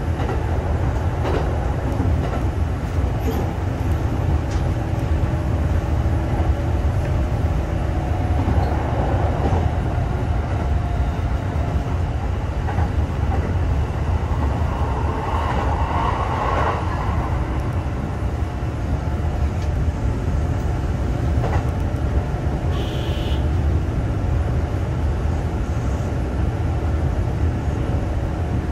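Kintetsu 2800 series electric train running at speed, heard from inside the front car: a steady rumble of wheels on rail, with a few faint clicks.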